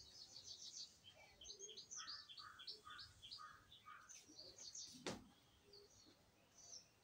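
Small birds chirping faintly in the background in quick repeated series, with one sharp tap about five seconds in.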